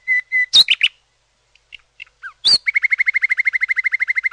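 A bird calling: a few sharp chirps about half a second in, then after a short pause a loud call and a fast, even trill of one high note, about ten notes a second, from about two and a half seconds in.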